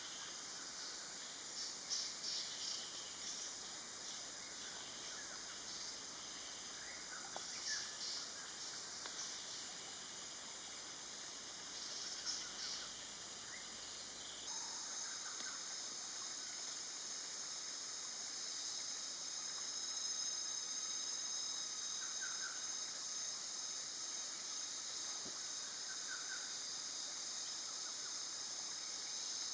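Steady high-pitched drone of insects with a few short bird chirps over it. The drone changes abruptly about halfway through.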